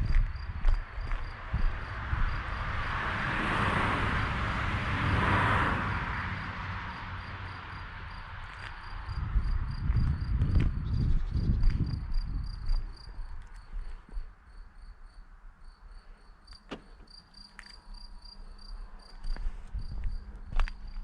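Crickets chirping in a steady, evenly pulsing high trill. A rush of noise swells and fades between about two and six seconds in, and low rumbling with a few knocks follows around ten to twelve seconds in.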